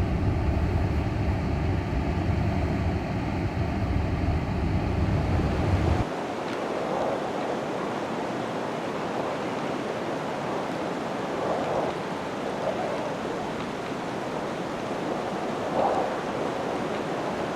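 Blizzard wind blowing in a steady rushing hiss with soft gusts. For the first six seconds a heavy low rumble, wind buffeting the microphone, lies under it and cuts off abruptly.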